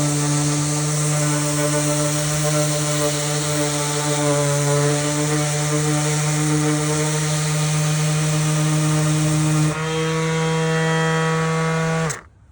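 DeWalt brushless 5-inch cordless random orbit sander running steadily on a wooden post, a motor hum under the hiss of the sanding disc on wood. About ten seconds in the hiss drops and the hum changes, and shortly before the end the sander stops abruptly.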